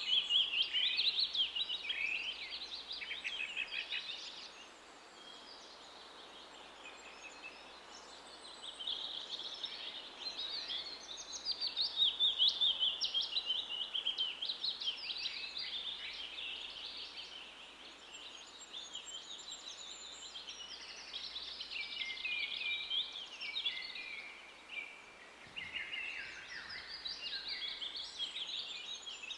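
Birds singing: rapid, high chirping and trilling phrases in several bursts, with a quieter spell about five seconds in.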